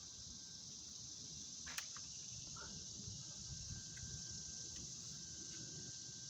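Faint, steady high-pitched insect chorus, with one sharp click about two seconds in.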